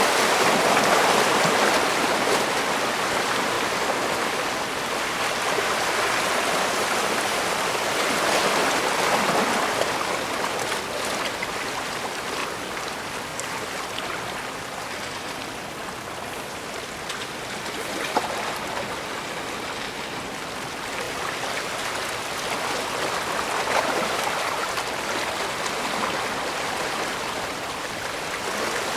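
Bay water washing and splashing along the shore in a continuous rush that swells and eases every several seconds, with a few small sharp splashes.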